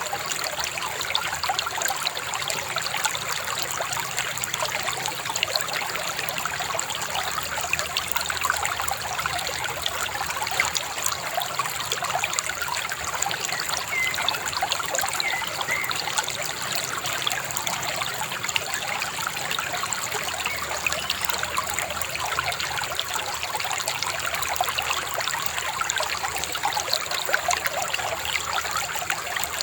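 Shallow river babbling and trickling over stones, a steady, dense bubbling with no pauses.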